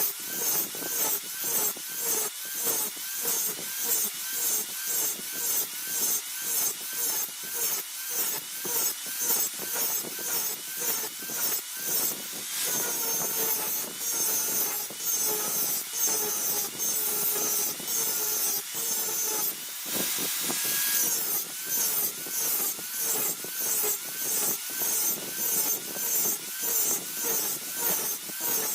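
Hand filing of a steel dao blade forged from car spring steel: rhythmic back-and-forth rasping strokes, about two a second, quickening for a stretch in the middle.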